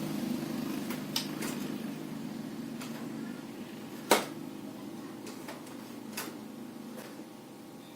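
A motor vehicle's engine fading away into the distance, with scattered light clicks and taps over it, the sharpest about four seconds in.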